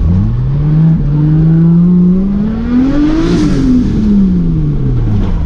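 Nissan 180SX's 1JZ inline-six engine under load: the pitch climbs steadily to a peak a little past halfway, then falls away as the revs drop off.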